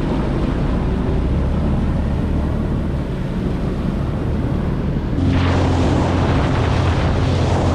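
Jet ski engine running at speed over the water, a steady low hum with rushing water and wind on the microphone. About five seconds in it gets louder, with the engine note stepping up and the spray hiss growing, as the craft speeds up.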